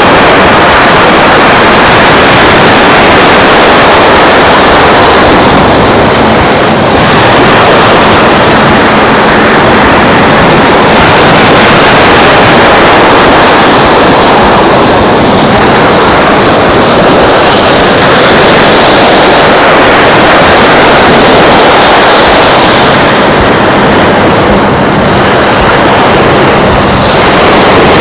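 Surf and wind at the shore: a loud, steady wash of noise that eases briefly every several seconds.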